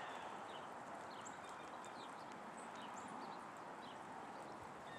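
Small birds chirping with many short, high calls over the steady distant rush of a jet aircraft passing overhead.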